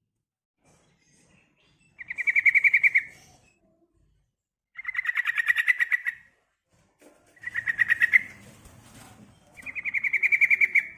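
Female yellow-vented bulbul calling: four short, rapid trills of repeated notes, each about a second long, separated by brief pauses. It is the call used as a lure to make male bulbuls answer and sing.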